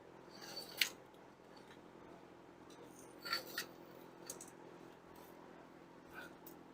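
Faint clicks, scrapes and light clinks of hand tools and small metal parts being handled in a few separate short bursts, over a steady low hum.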